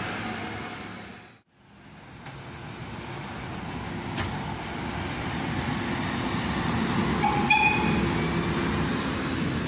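A red DB electric locomotive runs past with a steady whine over its running noise, until the sound breaks off about one and a half seconds in. Then a blue class 110 electric locomotive hauling passenger coaches approaches and passes, its running noise building up. There is a brief horn toot about seven and a half seconds in.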